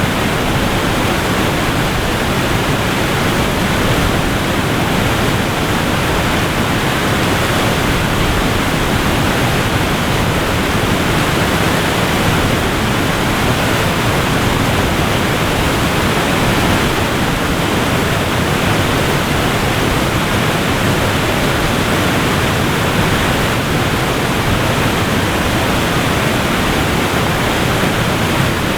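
Waterfall, a steady rush of falling water that stays even throughout.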